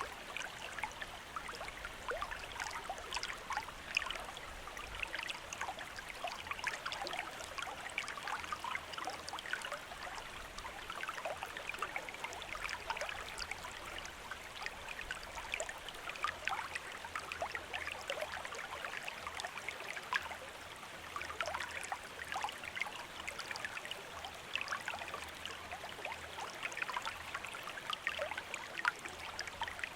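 A small stream running over stones, a steady babbling of many small splashes and bubbling trickles.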